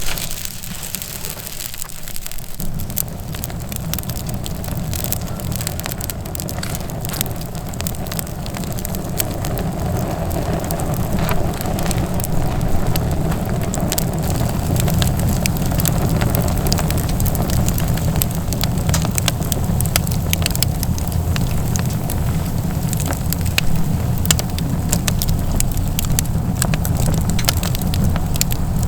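Firewood burning in a homemade sheet-metal pipe stove, crackling and popping over and over. A steady low rumble comes in about two seconds in and continues beneath the crackling.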